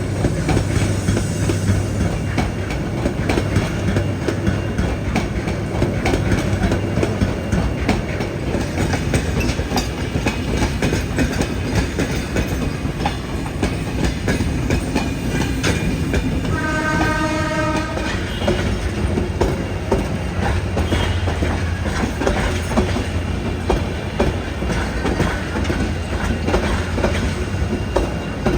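Train running along the track, wheels clattering steadily over the rail joints. About two-thirds of the way through, a train horn sounds for about a second and a half.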